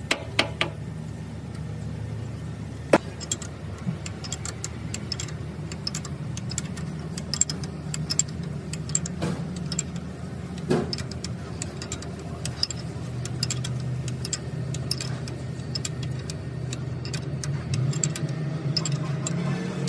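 An engine running steadily, with many sharp clicks and taps over it and a few louder knocks about three and eleven seconds in.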